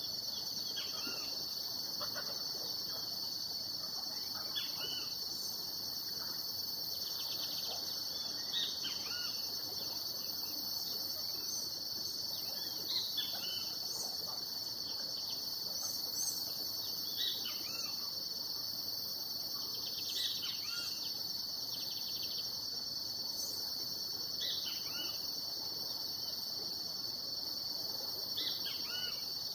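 Steady high-pitched insect chorus, with short bird chirps every few seconds.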